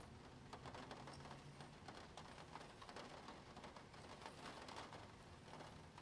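Faint, irregular light clicking and ticking of plastic Spirograph pieces, with a pen working on paper.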